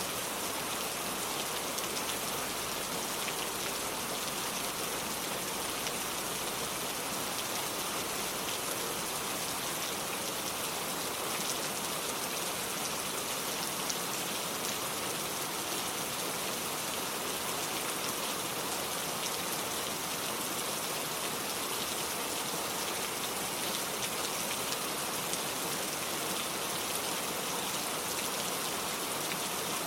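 Steady rain falling, a dense patter of raindrops on a wooden porch and the lake surface.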